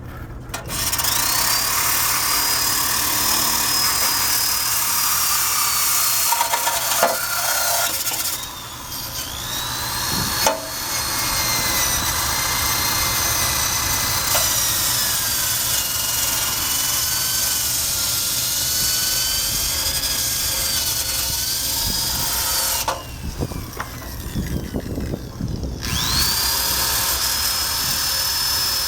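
Electric drill spinning a wire brush against the rusty undercarriage of a Honda Cub motorcycle frame, a harsh scraping with a motor whine that rises and falls in pitch as the brush is loaded. It stops briefly about eight seconds in, and again for about three seconds in the last part.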